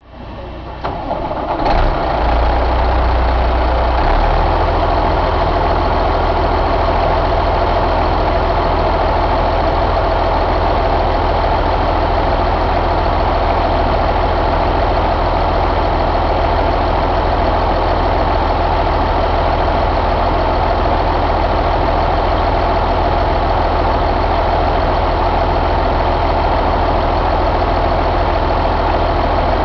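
Caterpillar C15 inline-six diesel engine coming up to speed over the first couple of seconds, then idling steadily with a deep, even drone.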